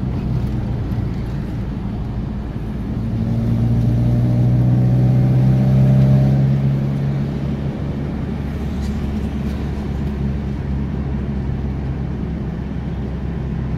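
Car engine and road noise heard from inside the cabin while driving. The engine pulls away, rising in pitch and getting louder from about three seconds in, then eases back to a steady cruising hum a few seconds later.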